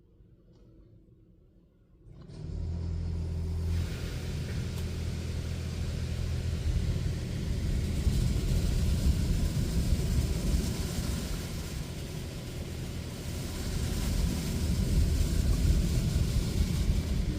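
Washworld Razor touchless car wash machinery starting up about two seconds in. A low motor hum sets in suddenly, followed by a loud, steady rushing noise that carries on.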